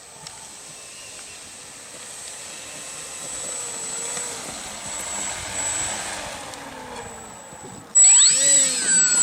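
A radio-controlled model aeroplane in flight, faint and slowly growing louder as it approaches. About eight seconds in it turns loud as it passes close by, its pitch sliding down as it goes past.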